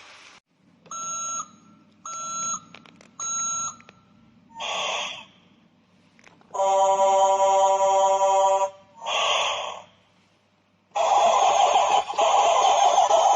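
Three short electronic beeps about a second apart, then a brief hiss, a horn-like tone held for about two seconds, and another hiss. A loud, steady rushing noise starts near the end.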